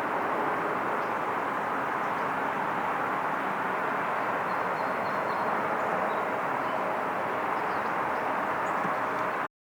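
Steady roar of jet aircraft engines, an even noise with no clear rise or fall, cut off by a brief dropout to silence near the end.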